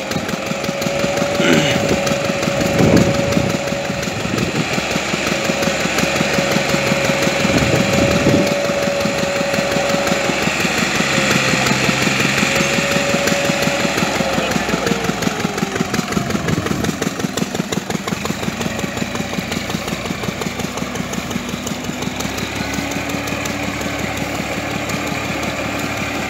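Massey Ferguson 260 tractor's diesel engine running with a steady chugging pulse and a whine that drops in pitch about fifteen seconds in, then settles to a lower steady tone.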